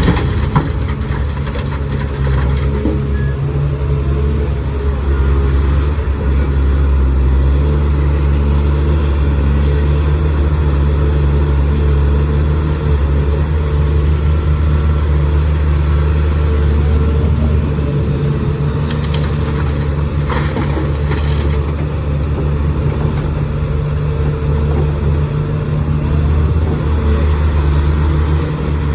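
Heavy diesel engine of earth-moving machinery running steadily with a low, even drone. There are a few short knocks near the start and again about two-thirds of the way through.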